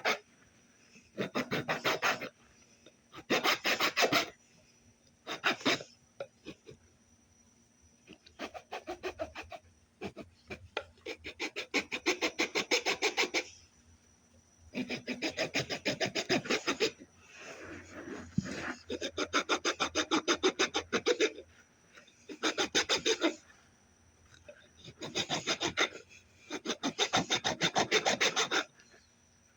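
Oak hammer handle being worked by hand with a rasp, in spells of rapid scraping strokes one to three seconds long with short pauses between, taking wood off to fit the handle into the hammer head.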